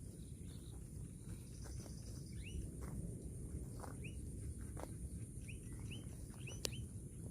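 Short chirps of a small bird, about a dozen, scattered through the second half over a steady low outdoor rumble, with a few soft knocks and one sharp click about six and a half seconds in.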